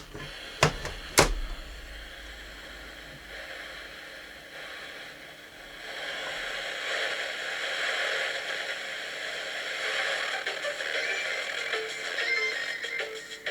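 Music playing from the camping lantern's built-in AM radio, growing louder about six seconds in. Two sharp clicks about a second in.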